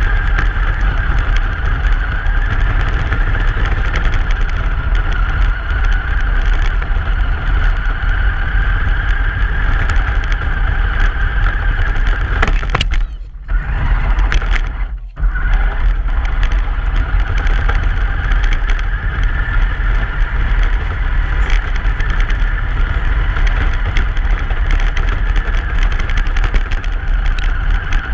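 A truck driving: a steady, loud rumble of engine and road noise with a constant higher whine. The sound drops out briefly twice about halfway through.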